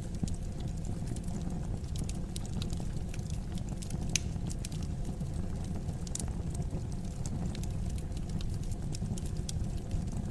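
Wood fire crackling in a fireplace: irregular sharp snaps and pops over a steady low rumble of the flames, with one louder pop about four seconds in.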